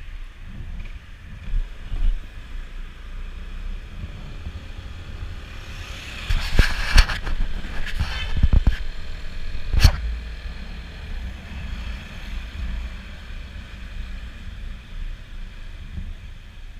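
Riding noise from a Honda PCX scooter: wind rumbling steadily on the microphone, with a busier stretch and a few sharp knocks about midway.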